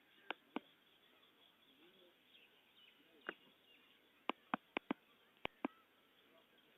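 About nine sharp clicks, several in quick pairs and a cluster between four and six seconds in, over faint bird chirping.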